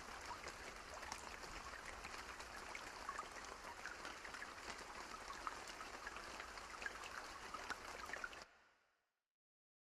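Steady rain, with scattered individual drops ticking over a soft hiss. About eight and a half seconds in it fades out quickly to complete silence.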